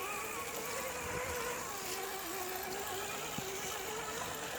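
Electric motor and gearbox of an Axial RC rock crawler whining steadily as it crawls along the trail, the pitch wavering slightly with the throttle.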